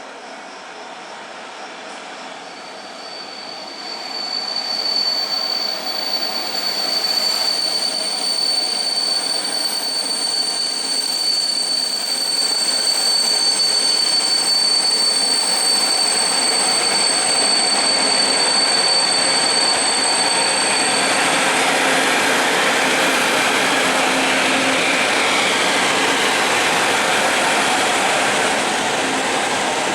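A train running over the rails with a high, steady metallic wheel squeal that sets in a few seconds in and stops about two-thirds of the way through. The rolling rumble grows louder and stays strong to the end.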